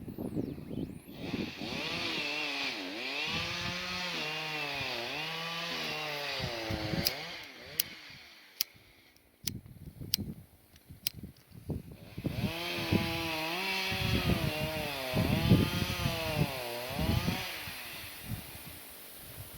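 Chainsaw cutting wood, its engine revving up and down as it works through the cut. About eight seconds in it drops away, with a few sharp clicks. It revs up again about four seconds later and cuts, easing off near the end.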